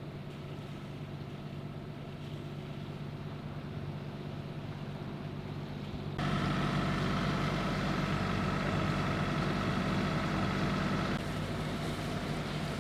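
A boat's engine running steadily, motoring the sailboat in through the atoll pass. It gets abruptly louder about halfway through and drops back a little near the end.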